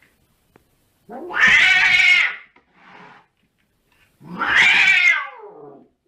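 A cat yowling: two long, loud calls with a short, quieter one between them. The second long call falls in pitch at its end.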